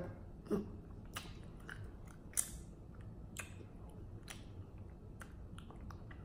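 A person chewing a bite of mochi ice cream, close to the microphone: soft, irregular mouth clicks and wet smacks scattered every second or so.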